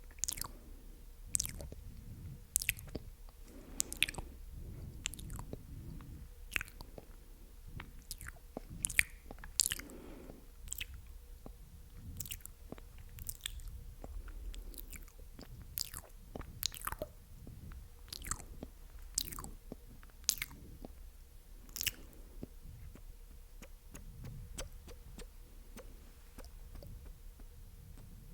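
Close-miked wet mouth sounds: sharp sticky clicks and smacks of tongue and lips, one or two a second, thinning out after about twenty-two seconds.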